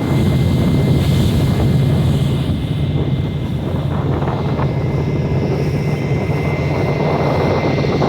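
Boat engine running at a steady pace, a low drone with a faint steady whine above it.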